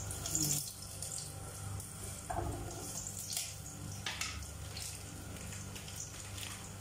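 Garlic sautéing in a little hot oil in a pot: a soft sizzle with scattered crackles as small dried ingredients are shaken in from a plastic bag.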